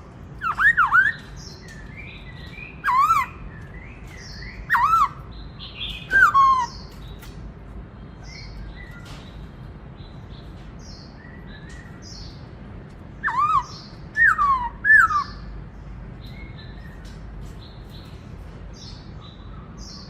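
Black-throated laughingthrush singing: loud, clear whistled phrases, each note slurring down and back up, in a run over the first seven seconds and three more around the 13–15 second mark, with softer chirps in between.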